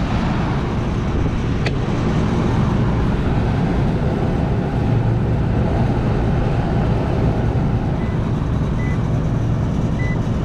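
Air-conditioning unit running on its second stage, a steady low hum with a single sharp click under two seconds in; its first-stage compressor is not running.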